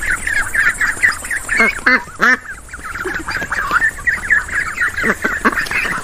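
A flock of domestic ducks quacking: many short, overlapping calls in a busy, continuous chatter, with a few louder quacks standing out about two seconds in and again near the five-second mark.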